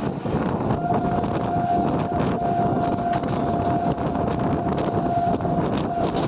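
A train running past close by, a steady rumble of wheels and rails with wind buffeting the microphone. A single steady high tone comes in about a second in and holds almost to the end.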